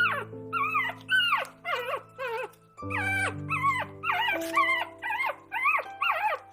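A dog whining and yipping in a run of short, high-pitched calls, each rising and then falling, about two a second with a brief pause partway through. Background music with held notes plays underneath.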